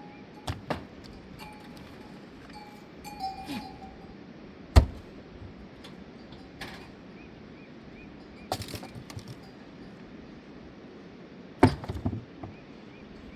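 Scattered sharp knocks and clicks over a steady low hiss. The loudest knock comes about five seconds in, and a quick cluster of them comes near the end.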